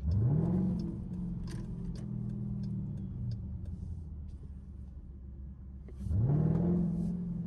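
Straight-piped Dodge Durango exhaust as the engine revs up sharply, holds for a couple of seconds and drops off, then revs up again about six seconds in.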